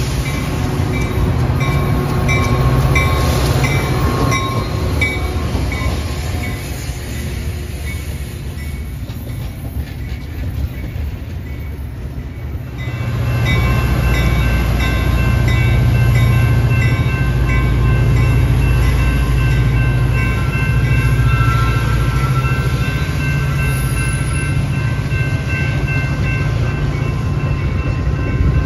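Train passing at close range: a steady rumble of locomotives and cars that grows louder about 13 seconds in. A rhythmic high ringing is heard over the first few seconds.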